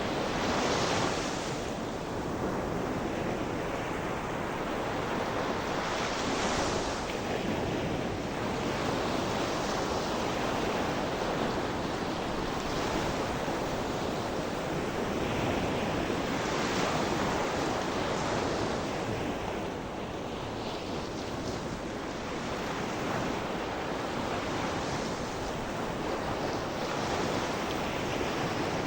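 Sea surf: waves breaking and washing on the shore in a continuous rush, with a swell every few seconds.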